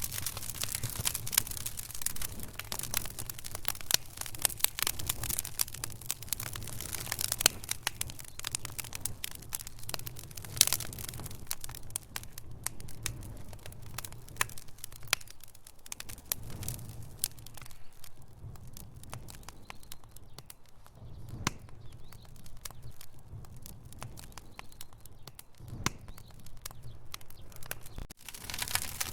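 Logs burning in a fireplace, crackling with many sharp pops and snaps over a low rumble of the flames. The crackling thins out midway and picks up again near the end.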